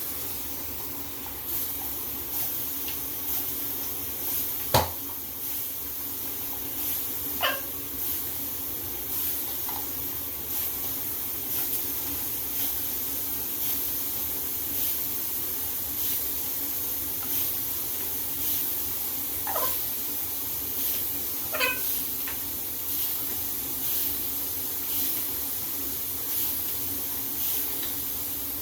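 Shower water spraying steadily over a blue-headed macaw, which gives about five short calls that fall in pitch, the loudest about five seconds in.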